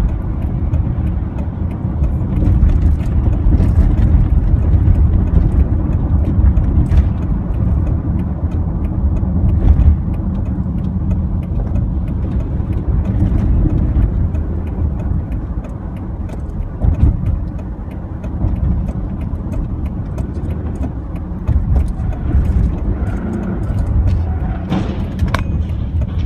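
A car on the move: a steady low rumble of engine and road noise, with scattered faint clicks.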